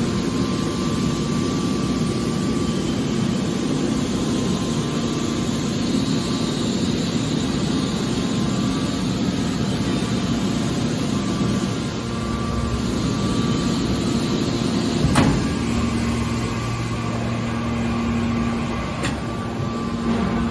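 Car scrap baler machine running with a steady mechanical hum from its motor and hydraulics. A single sharp knock sounds about 15 seconds in, and a fainter one near the end.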